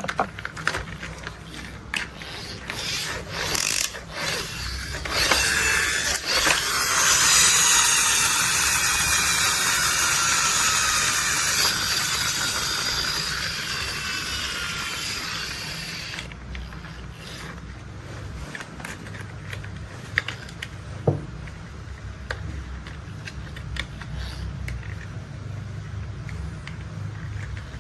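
Plastic toy construction vehicle being handled: clicking and ratcheting of its moving parts, then a whirring that falls in pitch and fades away over several seconds, then a few more clicks.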